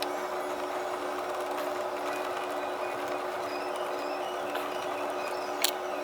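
Steady machine hum and whirr with a couple of steady tones, and a few light clicks, one sharper near the end.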